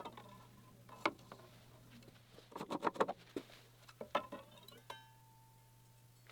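Scattered light taps and clicks of metal and tools being handled at a workbench, with a quick run of clicks about halfway through. One strike near the end leaves a short metallic ring.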